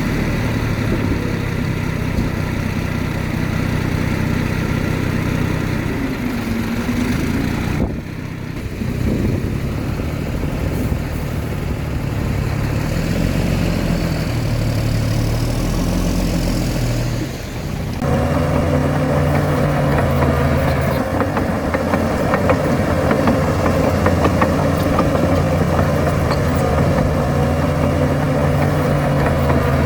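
Heavy diesel earthmoving machinery working, its engine note rising and falling with load. The sound changes abruptly about 8 seconds in and again about 18 seconds in.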